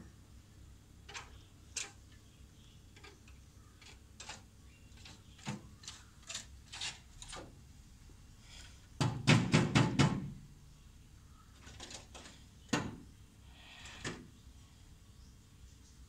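A woodpecker pecking at a mirror's glass: scattered single taps, then a quick run of about six loud knocks about nine seconds in.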